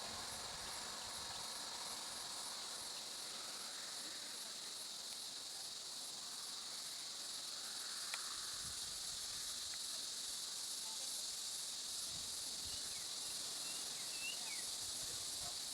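Insects chirring in a steady, high-pitched chorus with a fine rapid pulse, with a single click about eight seconds in.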